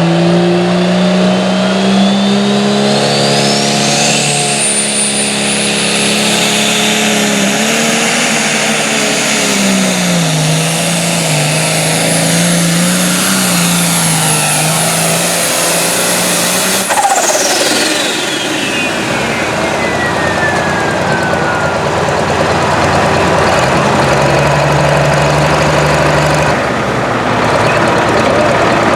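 Pulling tractor engine at full throttle under load, with a turbocharger whistle that climbs to a high pitch over the first few seconds and holds. About two-thirds of the way through the throttle comes off, the whistle winds down over several seconds, and the engine runs on at a lower pitch.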